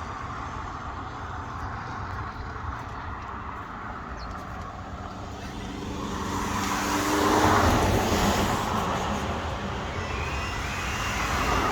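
Road traffic with a car passing by: its engine note rises as it approaches, loudest about seven or eight seconds in, then tyre noise fades away.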